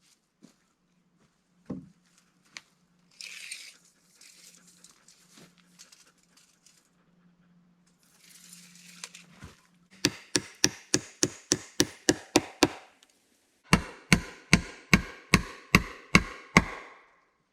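Hand tool striking wood in two quick runs of sharp, ringing blows, about four a second, with a short pause between them. Light scraping comes before the blows.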